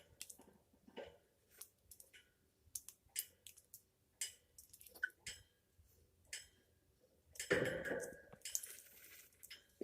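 African grey parrot preening: scattered small beak clicks and feather rustles, then a louder rustling burst about two seconds long starting about three-quarters of the way through.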